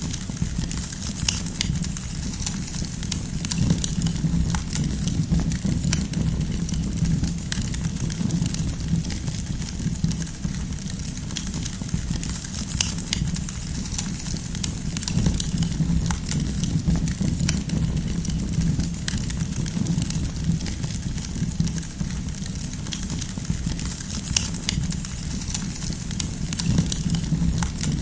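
Campfire of burning firewood crackling, with frequent small sharp pops over a steady low sound of the flames.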